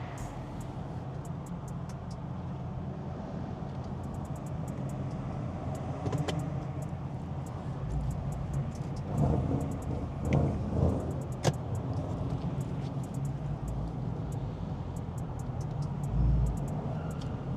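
Car engine and road noise heard from inside the cabin while driving slowly, steady, with a few louder surges about nine to eleven seconds in and a sharp click shortly after.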